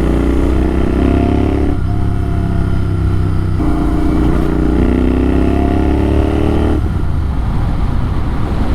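Motorcycle exhaust, an AEW TE102 with its dB killer removed, running loud and open. The engine note rises twice under throttle and drops off abruptly about two seconds in and again near seven seconds.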